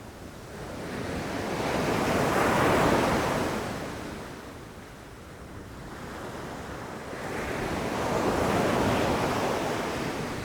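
Ocean surf: two waves breaking and washing in, each swelling to a peak and then fading.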